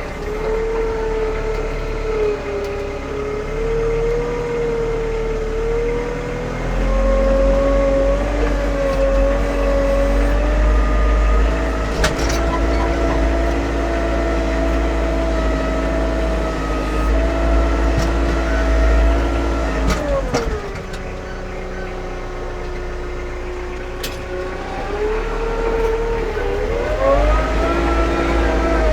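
A vehicle engine running and revving under load: its pitch climbs slowly, drops back sharply about two-thirds of the way through, then rises and falls again near the end.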